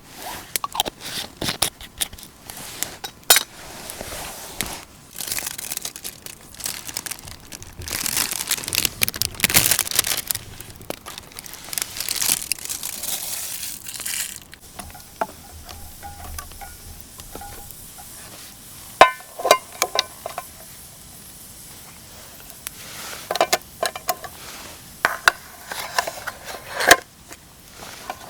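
Crinkling and rustling of camping gear being handled, with irregular clicks and, about two-thirds of the way in, a few sharp ringing clinks.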